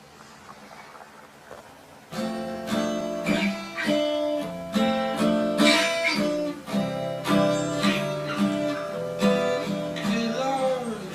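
Instrumental music: a faint held tone for about two seconds, then acoustic guitar comes in, strumming and picking chords in a steady rhythm, with a sliding note near the end.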